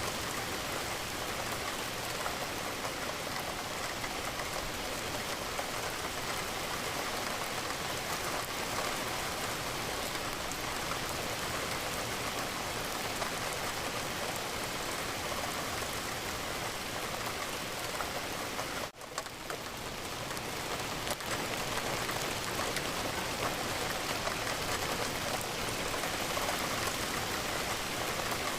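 Steady rain falling, an even dense patter, with a brief dropout about two-thirds of the way through where it cuts out for an instant and swells back in.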